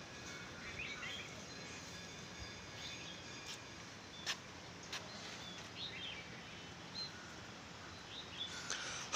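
Small birds chirping and calling intermittently over a steady faint outdoor hiss, with two sharp clicks a little after four and five seconds in.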